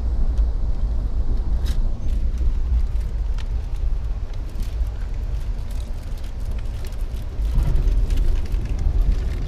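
A moving passenger train's steady low rumble, with scattered light clicks and rattles.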